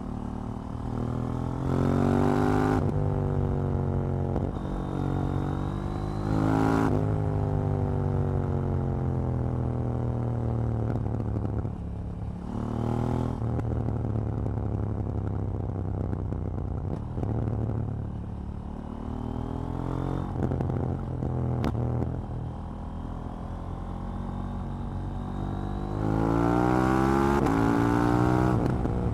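KTM 790 Duke's parallel-twin engine being ridden hard: it revs up sharply, drops in pitch at each gear change, and winds down as the throttle closes, several times over. The loudest pull comes near the end. One sharp crack comes about two-thirds of the way through.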